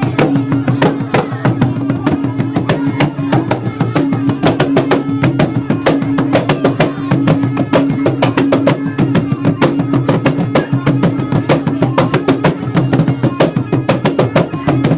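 Traditional North Maluku dance music: fast, dense drumming, several strikes a second, over a steady held tone.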